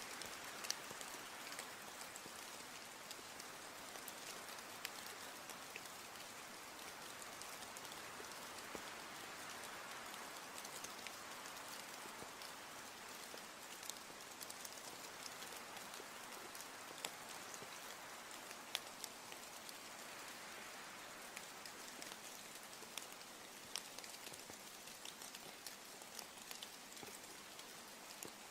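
Steady rain falling: a soft, even hiss dotted with scattered sharp taps of individual drops.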